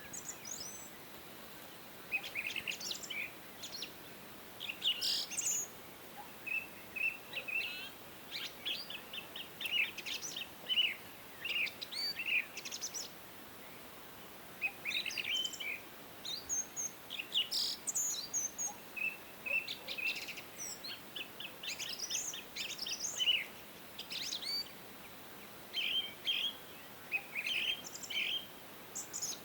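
Several songbirds singing and chirping: quick high chirps, short trills and twittering phrases that come and go, one bird overlapping another, over a faint steady outdoor hiss.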